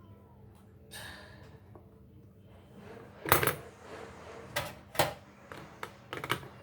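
A few sharp metallic clicks and light clatter, the loudest about three seconds in, as the LGA CPU socket's retention lever and load plate are released and the processor is taken out.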